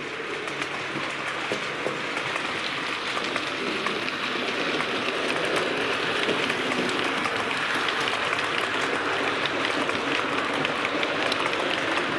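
OO gauge model train running on the layout's track: a steady rattling whirr of wheels and motor with many small clicks, growing gradually louder.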